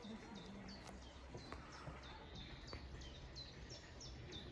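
Birds chirping outdoors: a steady run of short, high, quickly falling chirps, about three a second. A few soft clicks and a faint low background rumble lie beneath.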